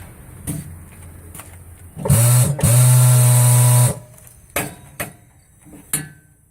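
Tire changer's turntable motor spinning up and running for about two seconds, stopping briefly just after it starts, with a loud hiss alongside. Sharp metallic knocks come before and after it as the wheel is handled on the machine.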